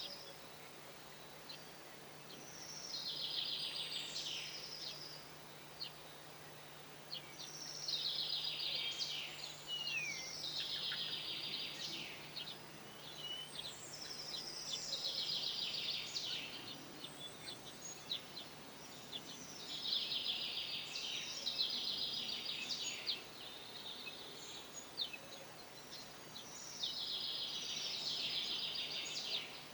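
A songbird singing the same short phrase over and over: a rapid, high trill that falls in pitch, about two seconds long and repeated every five to six seconds. A faint steady low hum runs underneath.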